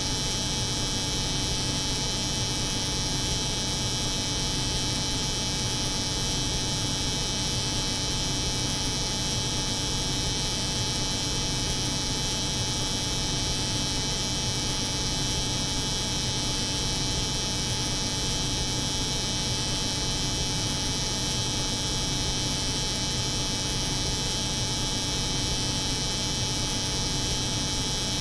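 Layered steady drone of a cold room's refrigeration hum and an electric hair clipper's buzz, unchanging throughout.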